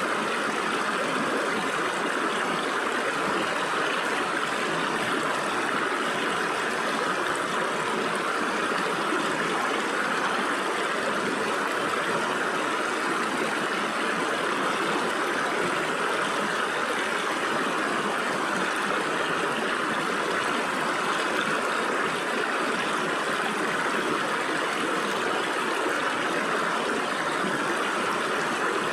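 Stream water flowing and splashing through gaps between rocks, a steady, even rush with no breaks.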